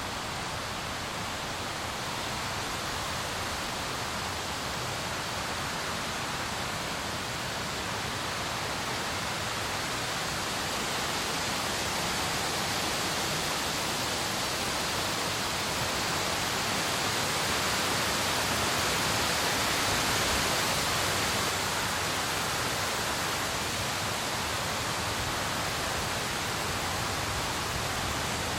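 Steady rain, an even hiss that swells a little past the middle and eases slightly near the end.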